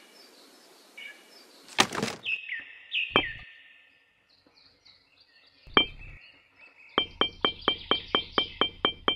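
Tiny toy bricks being set down one at a time: a few separate clicks, then from about seven seconds in a fast run of identical sharp ticks, about four a second. Near two seconds in there is a short loud swish, followed by a couple of falling chirps.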